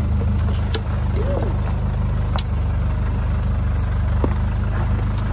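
An off-road 4x4's engine running steadily at low revs, a deep even hum, with a few faint clicks over it.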